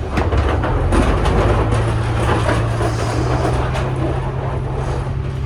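Tour bus driving: steady low engine hum with road rumble and rattles, the engine note settling into a constant drone about a second and a half in.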